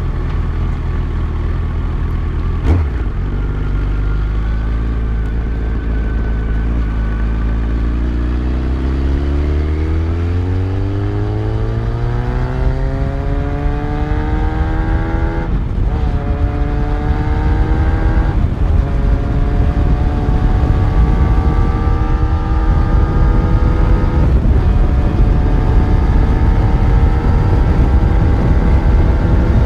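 Yamaha FZ1's inline-four engine running at low revs, then accelerating with a rising pitch from about eight seconds in. Short breaks in the note come as it shifts up through the gears, and after that it pulls on more slowly while rushing wind grows louder. A sharp click comes near the start.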